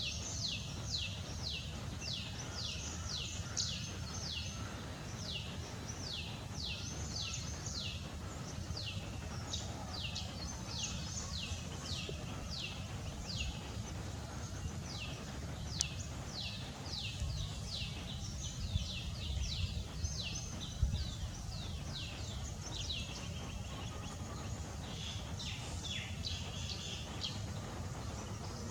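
Bird calls: a long run of high chirps, each sweeping steeply downward, about three a second, becoming more irregular near the end, over a steady low rumble.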